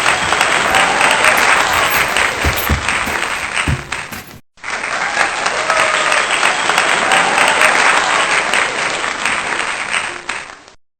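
Applause from a crowd, played twice with a sudden break about four and a half seconds in, with a faint tune beneath it.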